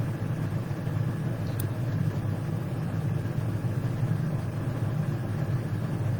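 Steady low mechanical hum, even in level throughout, with one faint click about a second and a half in.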